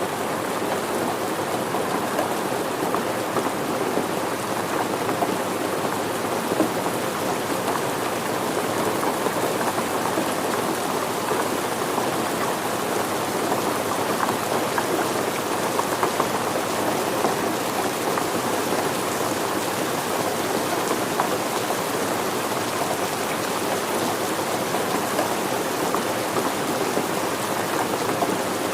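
Steady rain falling and pattering on surfaces, a dense even hiss of many small drop impacts without pauses.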